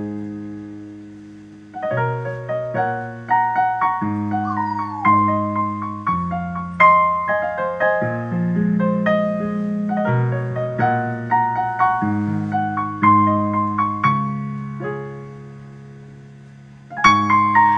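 Piano playing the slow introduction to a gospel song: held chords under a melody line. The music dies away about a second and a half in, comes back, and dies away again just before a new chord near the end.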